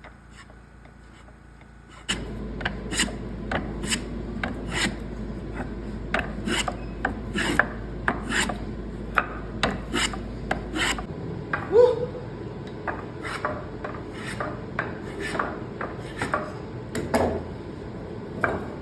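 Hand tool rasping and shaving the wooden end of a chair leg in quick, uneven strokes, starting about two seconds in, to bring it under an inch for a tenon cutter. One short squeak partway through.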